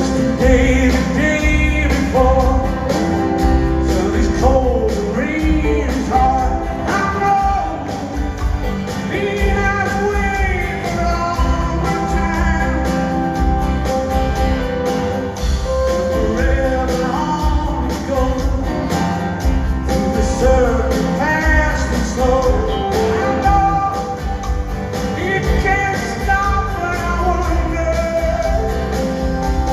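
Live rock band playing with guitars, bass and drums, a man singing the lead vocal over it, recorded at a concert.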